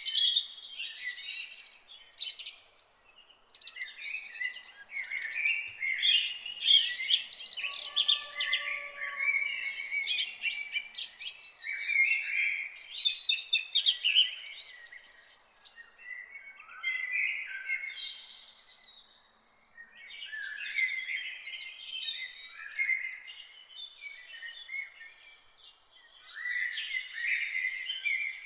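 Chorus of several songbirds singing at once, a dense run of overlapping quick chirps and short trills.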